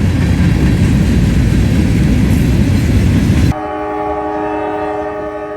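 Loud, dense rumble of a freight train passing close. About three and a half seconds in it breaks off sharply, and a diesel locomotive's horn sounds a steady multi-note chord.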